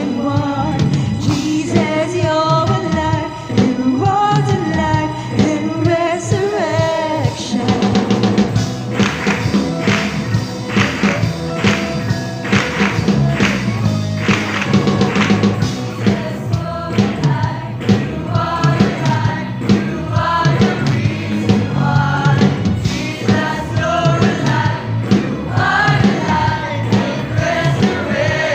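Youth choir singing a gospel song with band accompaniment. About seven seconds in, the backing grows fuller, with more bass and a beat.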